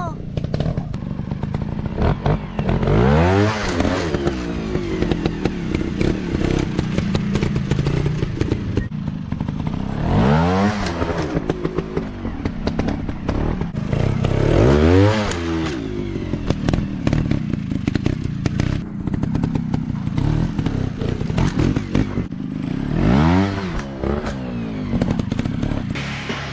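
Small single-cylinder off-road motorcycle engines running hard, revving up and down in about four surges, with clattering knocks and thumps from riding over rough ground.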